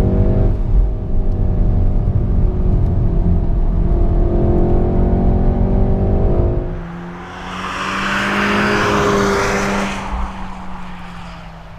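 Volkswagen Golf R's turbocharged four-cylinder engine pulling hard as heard inside the cabin, its pitch rising as the car accelerates. About seven seconds in, the sound changes to a rushing noise over a steady low hum.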